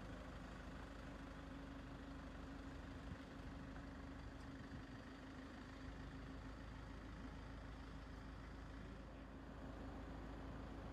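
Faint, steady hum of an idling vehicle engine, one constant low tone over a low rumble.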